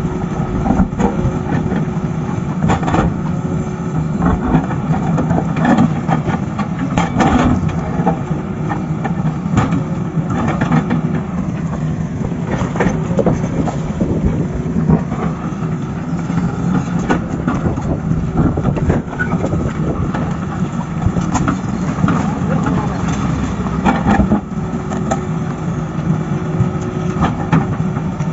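Diesel engine of heavy earthmoving machinery running steadily, with frequent clanks and knocks throughout.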